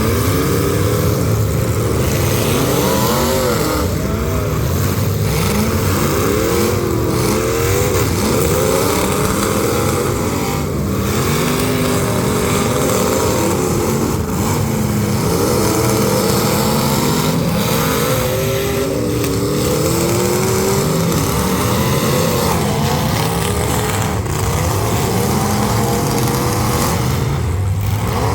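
Engines of several full-size demolition derby cars revving hard at once, their overlapping pitches rising and falling continuously at a loud level.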